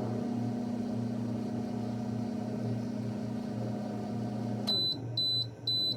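Microwave oven running with a steady hum while it cooks brownie batter. Near the end the hum cuts off as the timer runs out, and the microwave starts beeping about twice a second to signal that cooking is done.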